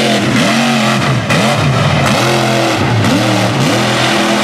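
Mega truck engine revving hard, its pitch climbing and dropping about five times as the throttle is worked on and off.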